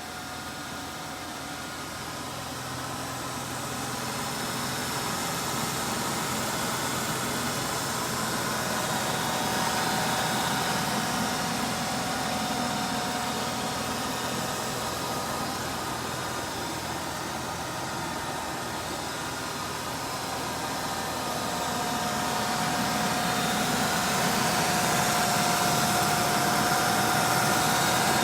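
Supercharged 3.8 V6 of a 1995 Ford Thunderbird Super Coupe running steadily, a high whine over the engine note, gradually getting louder. It is a replacement engine fitted in place of one with a bad rod bearing, running without that fault.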